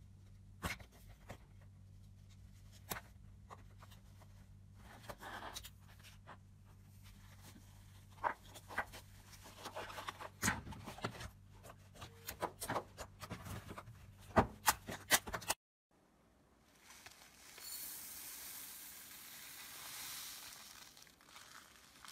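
Close-up slime being pressed and pulled, giving scattered sharp clicks, pops and crackles. After an abrupt cut, a soft hiss swells and fades over a few seconds.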